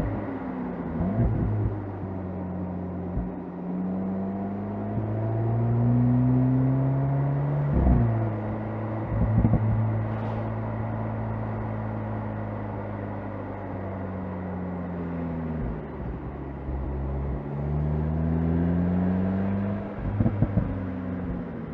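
Golf GTI Clubsport's turbocharged 2.0-litre four-cylinder engine under way, its note climbing under acceleration and dropping at each gear change. There are a few brief sharp bangs around the shifts.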